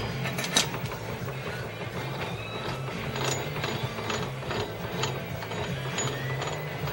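Motorcycle gearbox being worked by hand, its gears clicking and ratcheting in irregular sharp clicks, over background music with a pulsing bass.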